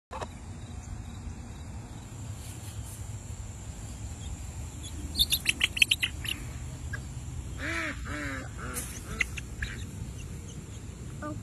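Outdoor background with a steady low rumble. About halfway through a bird gives a quick run of high chirps, and a couple of seconds later comes a short two-note call.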